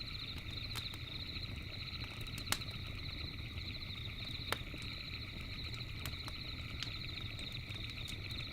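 Campfire crackling, with scattered sharp pops, the loudest about 2.5 and 4.5 seconds in, over a low rumble of the burning fire. Behind it a steady, high chorus of night insects chirps without a break.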